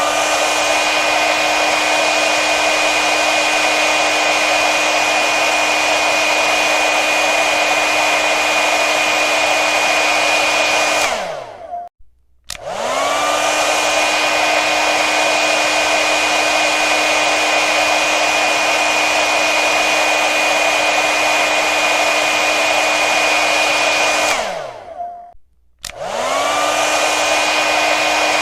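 Hair dryer running: a rush of air with a steady motor whine. It winds down and stops twice, about 11 and 24 seconds in, and after a second's pause starts again each time, the whine rising as the motor spins up.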